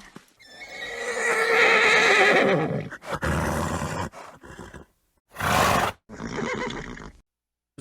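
Horse neighing: one long whinny of about two and a half seconds, its pitch dropping toward the end. It is followed by several short, breathy snorts.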